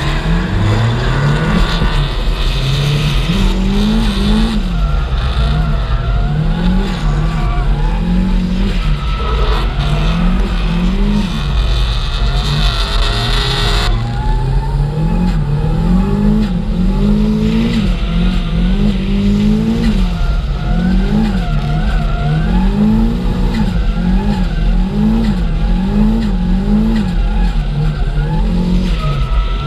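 Drift car's engine revving up and dropping back over and over, roughly once a second, as the throttle is worked through a drift, with tyres squealing under it.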